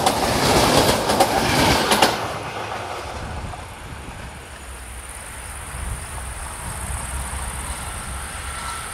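Passenger coaches rolling past close by, their wheels clattering over the rail joints in quick strokes. About two seconds in the sound drops sharply to a faint low rumble as the train moves away.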